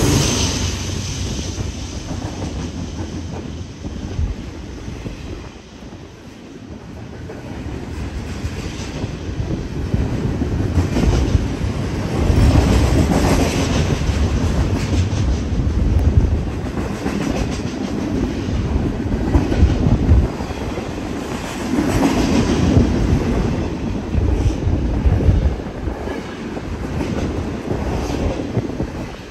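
Double-stack container freight train rolling past, its cars' wheels rumbling and clacking over the rail joints. The sound dips about five seconds in, then grows louder again.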